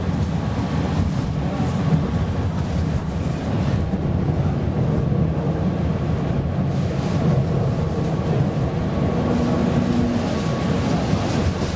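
PESA Fokstrot tram running on rails, heard from inside the passenger cabin: a steady low rumble of wheels and running gear with a faint steady tone above it.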